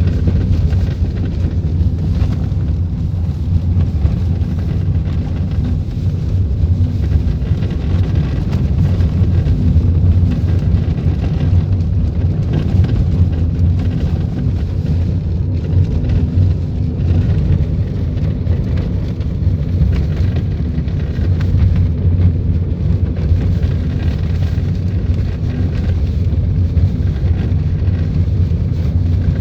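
Steady low rumble inside a Volkswagen Polo's cabin while driving: road and engine noise.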